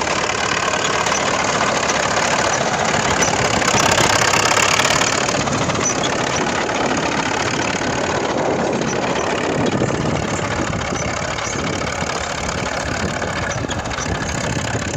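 T-100 crawler tractor's diesel engine running under way, briefly louder about four seconds in.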